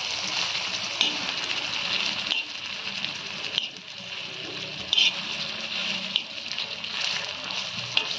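Halva and dry fruits sizzling in ghee on an iron griddle, stirred with a metal spoon, with a few sharper scrapes of the spoon on the pan.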